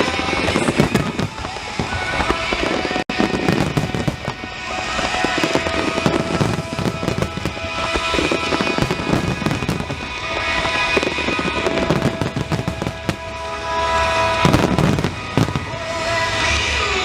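Fireworks shells bursting one after another with crackling, in the finale of a fireworks festival, over music played through loudspeakers.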